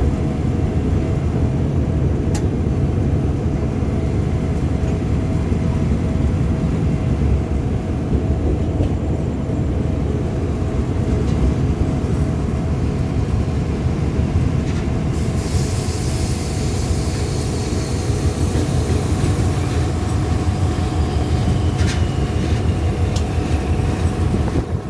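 A train passing at close range: a steady, loud low rumble of wheels on the rails, with a few sharp clicks and a high hiss for a few seconds about two-thirds of the way through.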